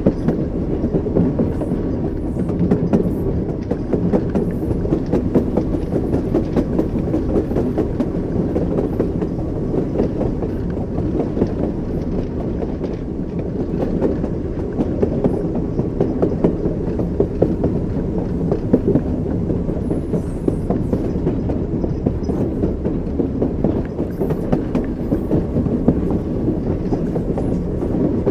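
Train wheels running over the rails: a steady low rumble with a clickety-clack of wheels knocking over the rail joints.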